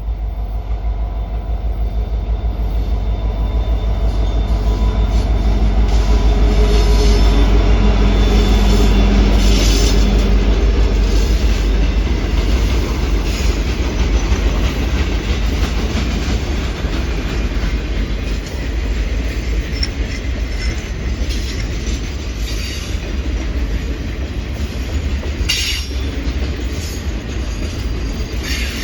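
Norfolk Southern Triple Crown RoadRailer freight train passing close by: a heavy rumble that swells to its loudest with a pitched engine tone about a quarter of the way through, then settles into the steady rolling of wheels on rail. Brief sharp wheel squeals come now and then.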